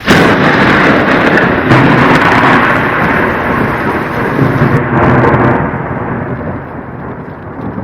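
A sudden loud crash of rumbling noise that starts abruptly and slowly dies away over several seconds.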